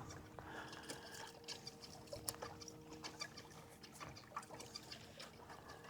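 Quiet water around a kayak: faint scattered small ticks and trickles of water, under a faint steady hum.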